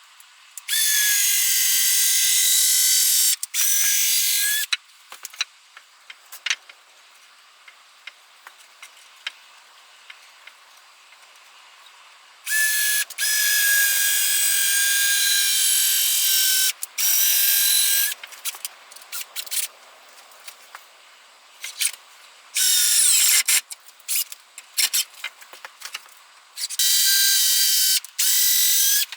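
Handheld electric power tool working wood, run in about six bursts of one to four seconds each, its motor holding a steady pitch. Light knocks and clicks come between the bursts.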